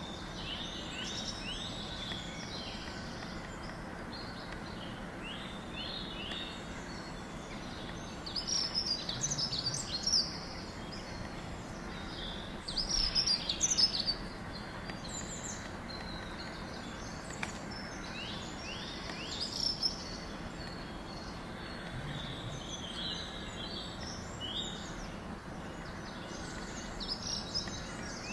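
Small birds chirping in scattered clusters of quick, high, downward-sliding notes, loudest about a third of the way in and again near the middle, over a steady outdoor background hiss.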